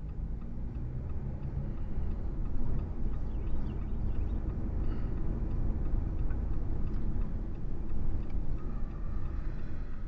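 Car driving, heard from inside the cabin: steady low road and engine rumble.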